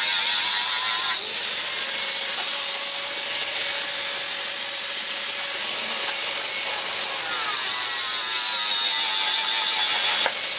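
Electric power tool, such as an angle grinder, working steel: a steady high grinding noise whose pitch sags and recovers as the tool is loaded. The sound breaks off abruptly about a second in and again near the end.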